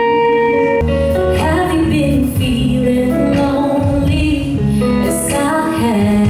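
Live music: a woman singing an original song over guitar accompaniment.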